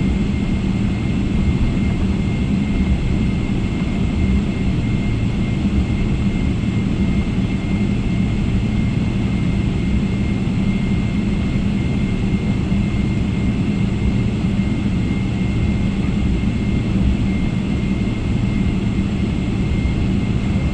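Steady jet engine and airflow noise inside the cabin of a Garuda Indonesia Boeing 777-300ER, a constant low drone with a thin steady whine above it.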